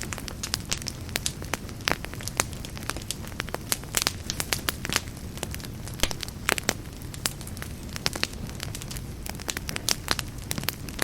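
Wood fire burning in a fireplace: a steady low rumble of the flames under frequent irregular sharp crackles and pops.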